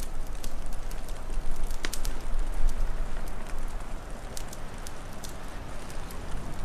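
Wood fire crackling, with sharp pops scattered irregularly, over a steady rushing wind with a low rumble that swells a little in the first half.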